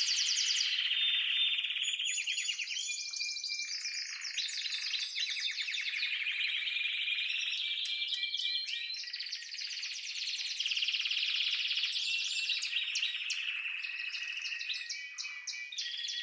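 Canary singing: a long song of rapid trills, each rolling phrase held for about a second before switching to another pitch.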